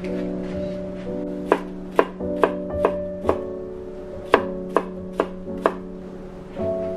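Knife chopping on a cutting board, about nine sharp strokes at roughly two a second in two short runs, over soft background music.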